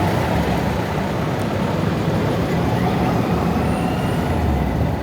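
Motorbike engine running amid street traffic, a steady low rumble.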